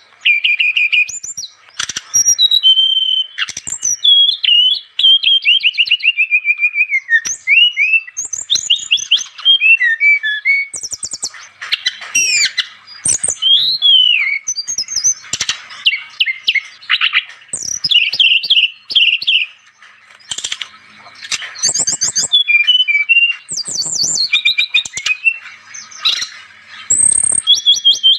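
SRDC (sepah raja dada coklat) songbird singing gacor: a fast, unbroken run of varied chirps, rapid trills and sliding whistled notes in short phrases.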